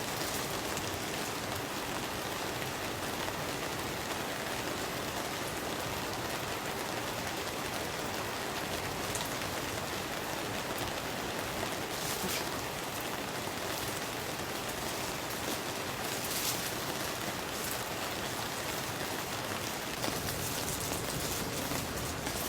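Steady rain falling on a tent, an even hiss with a few faint taps of single drops.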